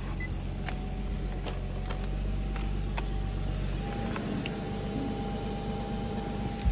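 Nissan Skyline HNV37's VQ35HR 3.5-litre V6 idling steadily, with a few faint clicks; it runs evenly, without extraneous noises. The low hum changes about four seconds in.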